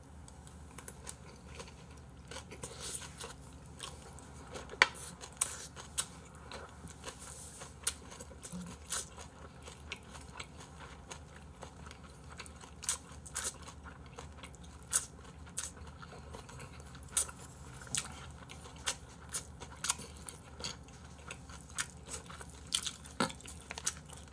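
A person chewing a mouthful of duck barbecue close to the microphone, heard as irregular sharp mouth clicks and crunches, roughly one or two a second.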